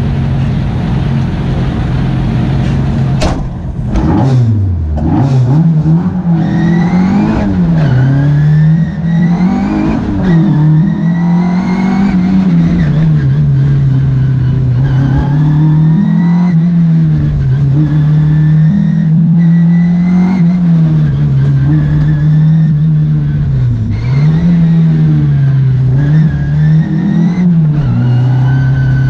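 Slalom car's engine heard onboard, held at steady raised revs on the start line. About three seconds in there is a sharp knock at the launch, and the revs dip and then climb. The revs then rise and fall repeatedly as the car accelerates, shifts and brakes through the slalom gates.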